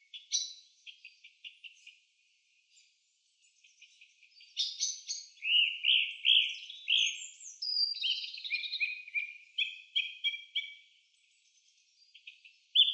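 Birds chirping: quick runs of short chirps, trills and falling whistles, with a brief lull about two seconds in.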